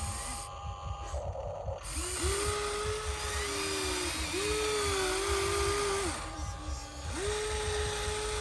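Small electric motors of a radio-controlled toy construction vehicle whining. The whine starts and stops about three times, each run rising to a steady pitch for a second or two and then winding down.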